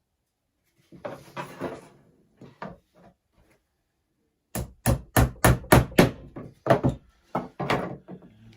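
Hammer tapping on a wooden beehive frame: a quick run of six strikes about four a second, then a few more spaced blows. It follows a short spell of wood pieces being handled and knocked about a second in.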